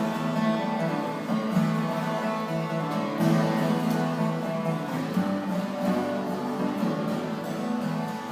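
Acoustic guitar strummed in an instrumental break between sung verses of a traditional folk song.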